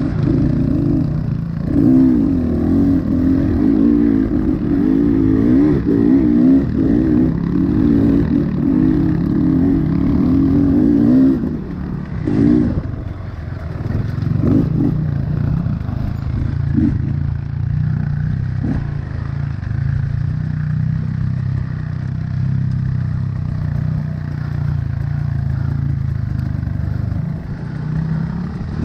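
2025 Honda CRF110 pit bike's single-cylinder four-stroke engine under way off-road: revving higher with the pitch wavering up and down for the first ten seconds or so, then settling to lower, steady revs for most of the rest. A few knocks and clatters come around the middle.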